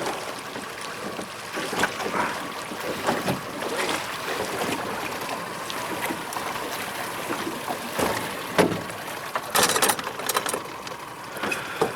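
Waves splashing and lapping at the water's edge, with a louder splash about nine and a half seconds in.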